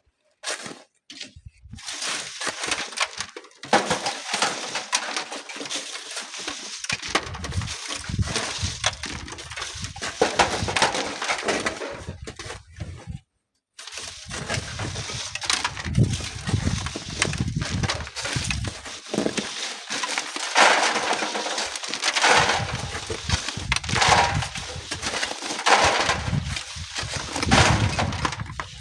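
Strong wind buffeting the microphone in gusts, with a gritty crunching of sand and stones underneath.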